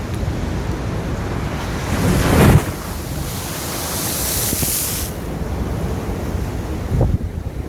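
Sea waves breaking on the shore: a loud crash about two and a half seconds in, then a hissing wash of water, and a smaller crash near the end, with wind buffeting the microphone.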